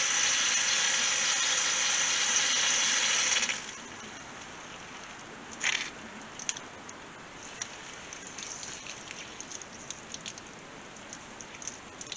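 Fluid rushing and hissing through the fill adapter on a tractor tire's valve stem, cutting off suddenly about three and a half seconds in. It is followed by scattered small clicks and one sharper knock about two seconds later.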